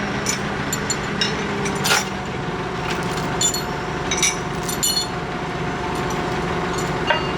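Scattered sharp metallic clinks and taps, several with a brief high ringing, over a steady hiss and low hum.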